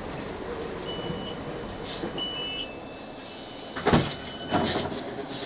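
Interior running noise of a Class 458 electric train slowing into a station: a steady rumble that eases off about three seconds in. A few brief high-pitched squeals come and go through it, and a single clunk sounds about four seconds in.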